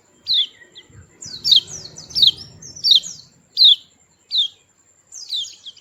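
White-eye (pleci) chirping: a series of short, sharp notes that each slide downward, about one every two-thirds of a second, with a short pause before a last quick cluster near the end.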